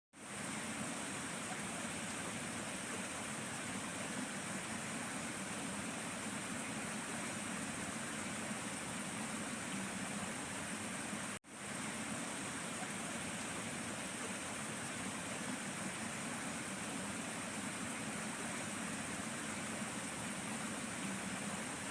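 Steady rush of water flowing through rice-paddy channels, with a constant high-pitched chorus on top from the frogs and other small creatures of the paddies. The sound drops out for a moment about halfway through, then fades straight back in.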